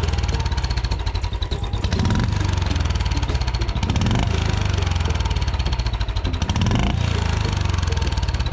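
Royal Enfield Bullet 350's single-cylinder engine idling with a steady exhaust pulse. A turbo whistle fitted in the silencer outlet adds a faint whistling chirp over it, like a koel caught in the silencer.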